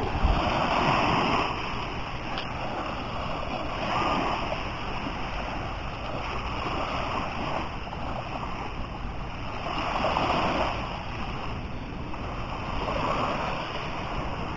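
Sea waves breaking and washing up the beach, a louder wash every few seconds over a steady surf noise.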